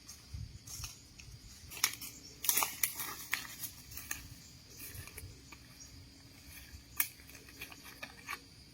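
Close handling noises: scattered sharp clicks and light scrapes, with a cluster of them about two and a half seconds in and one sharp click near seven seconds.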